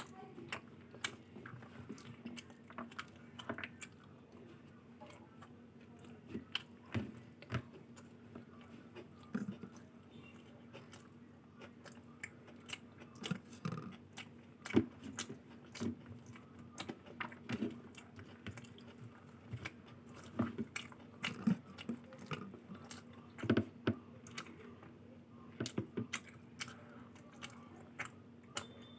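Close-miked mouth sounds of someone eating: steady chewing with many irregular sharp clicks and short wet smacks. A faint steady hum runs underneath.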